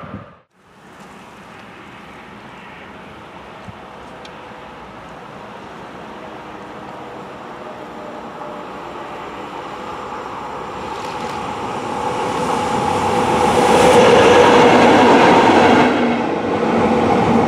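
A train approaching along the railway line, its noise rising steadily over about twelve seconds to its loudest near the end as it comes past.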